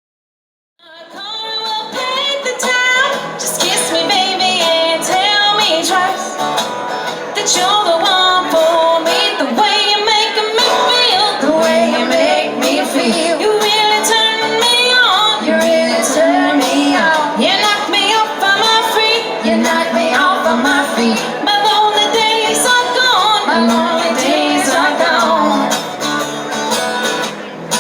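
Live band music with a woman's voice singing, starting abruptly about a second in.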